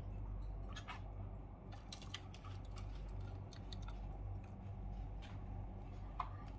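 Budgie's beak pecking and nibbling: scattered light ticks and clicks over a steady low hum.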